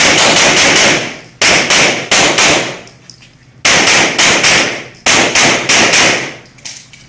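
Rapid pistol fire: four quick bursts of several shots each, with short pauses between bursts, every shot ringing out with a short echo.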